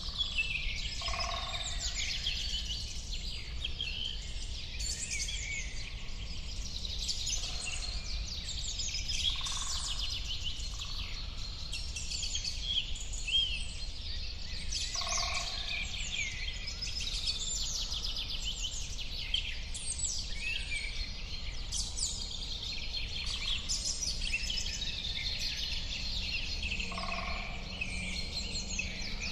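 A dense chorus of many small birds chirping and singing, with quick high calls overlapping throughout. A lower two-note call repeats every few seconds, over a steady low rumble.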